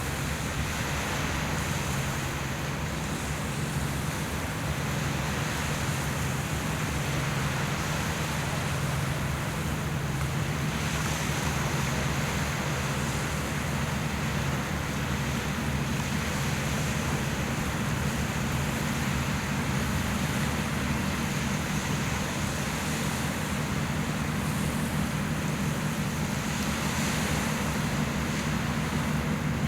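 Steady low boat-engine hum with constant wind and water noise on open sea.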